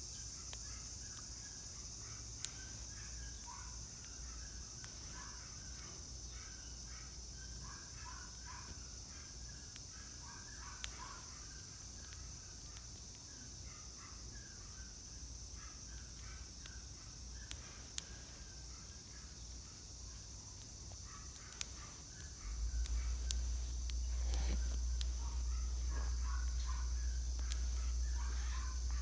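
A steady, high-pitched insect chorus, with scattered bird calls repeating through it and a few sharp clicks. A low rumble, like wind on the microphone, comes in about three-quarters of the way through.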